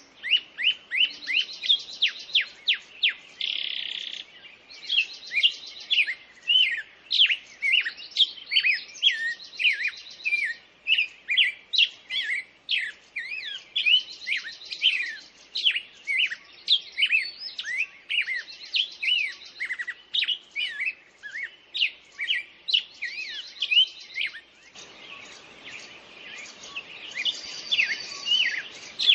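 Several songbirds singing and chirping at once: a dense run of quick sweeping chirps with repeated buzzy, rapid trills. About 25 seconds in, a faint background hiss comes in under the birds.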